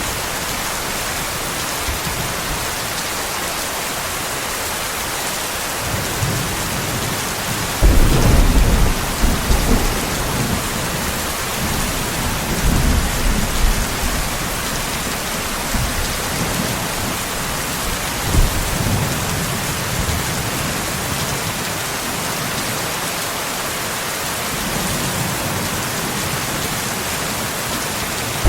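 Steady heavy rain hissing, with a thunderclap breaking in about a third of the way through and rumbling on for several seconds, then fainter rolls of thunder later.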